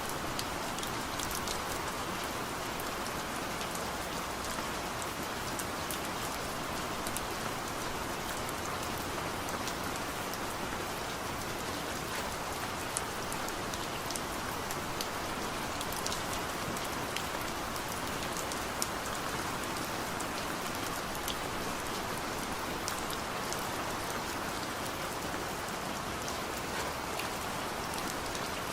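Heavy rain falling steadily, an even hiss with many sharp individual drop taps scattered through it.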